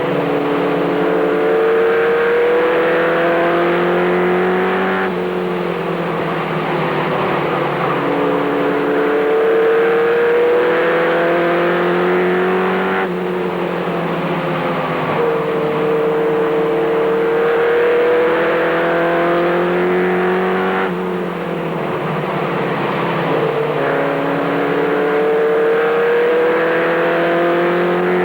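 Race truck's engine heard from inside the cab at racing speed, its pitch climbing for several seconds under acceleration and then dropping suddenly as the driver lifts, about every eight seconds.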